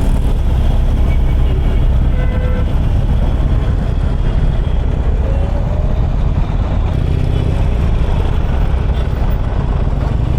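Motorcycle engine running steadily while riding at speed, with heavy wind and road noise on the helmet microphone.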